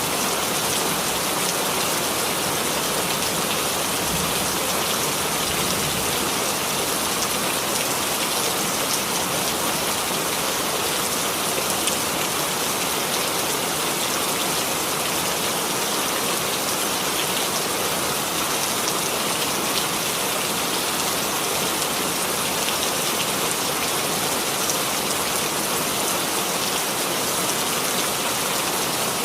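Steady rainfall, a constant hiss of rain with fine pattering drops, even and unchanging throughout.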